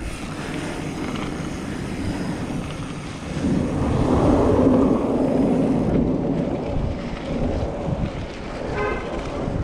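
Wind buffeting the microphone and tyres rumbling over a dirt road while riding a mountain bike. A louder swell runs through the middle.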